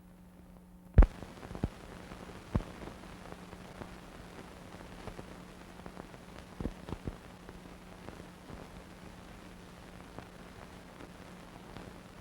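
Playback noise on a silent archival film transfer: a steady hiss and a low hum that start about a second in, with irregular clicks and pops. The loudest pop comes right at the start of the noise, and a few more strong ones follow over the next six seconds.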